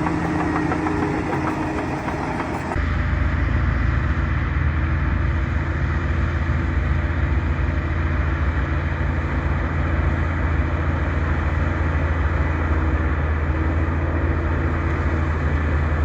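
Bulldozer diesel engine running steadily. About three seconds in the sound changes abruptly to a deeper, heavier engine drone.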